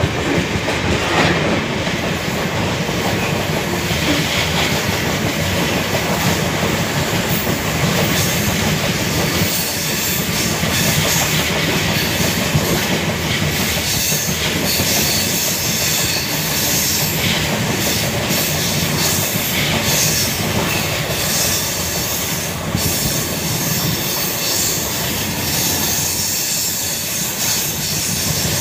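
Passenger train running at speed, heard from on board: a steady rush of wheel and track noise with scattered clattering over the rails.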